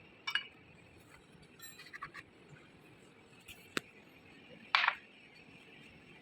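Scattered light clicks and clinks of metal tools and motor parts being handled, with the loudest short scrape or clatter about three-quarters of the way through.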